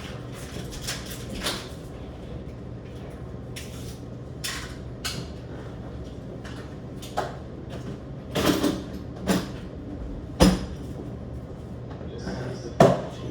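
A series of short, sharp household knocks and clatters, about seven of them, the loudest near the end, over a steady low hum.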